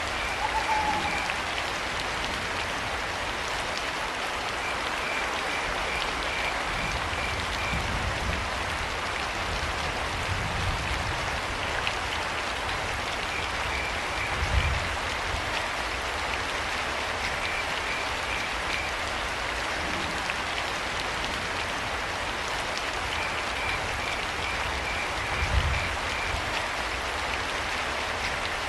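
Steady rain falling, with crickets chirping in short trains of rapid, high pulses that come and go several times. A brief falling call sounds in the first second, and a few low rumbles rise out of the rain, the strongest about halfway through and near the end.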